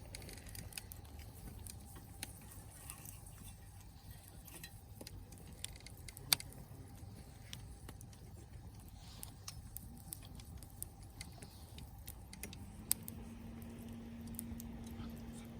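Burning log in a campfire crackling with irregular small pops, one sharp pop about six seconds in. Near the end a steady low hum starts.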